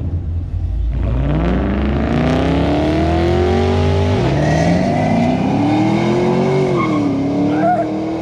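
A car accelerating hard through the gears. The engine's revs climb from about a second in and drop at an upshift just after four seconds. They climb again and drop at a second shift near seven seconds.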